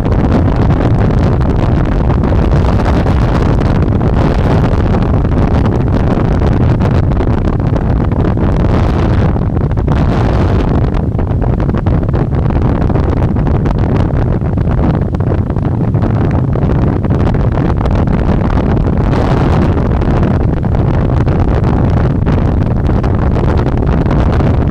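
Heavy wind buffeting the microphone of a rider moving at speed on an electric bike: a loud, steady rushing rumble that swells and eases a little.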